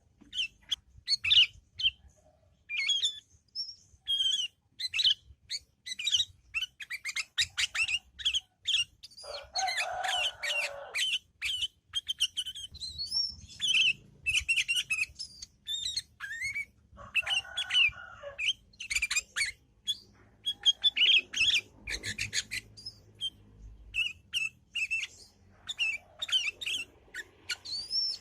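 Sooty-headed bulbul (kutilang) chattering fast and continuously: dense runs of short, high chirps and trills, the busy 'ngriwik' twitter. A rougher, lower rasping noise comes in twice, about ten and seventeen seconds in.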